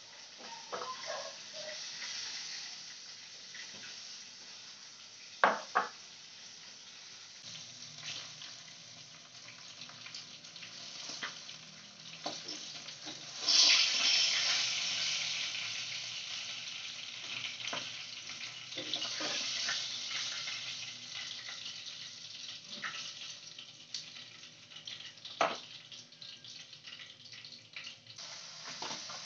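Two sharp knocks, then about halfway through a sudden loud sizzle as food goes into hot oil in a wok. It fades slowly into steady frying, with occasional clicks of metal tongs on the pan.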